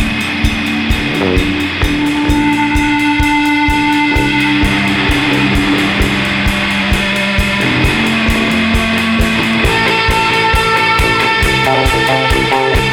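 Rock band playing: guitar notes held over bass and drums keeping a steady beat.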